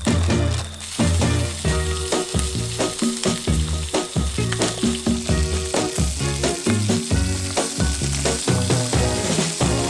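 Food sizzling in a pan over a wood-fired camp stove, a steady frying hiss that grows about a second in, heard under background music with a bass line and a steady beat.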